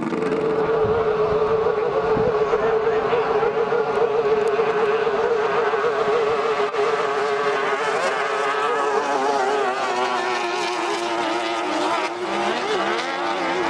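Speedboat engine running at high revs, its pitch steady but wavering slightly, easing lower near the end.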